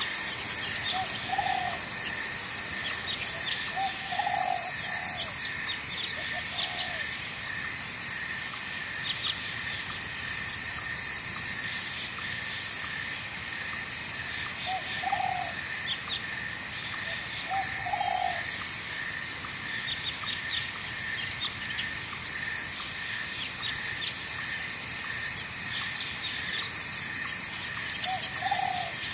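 Night forest ambience: a steady chorus of insects trilling in several high layers, with a short low animal call about six times, over an even rush of flowing water.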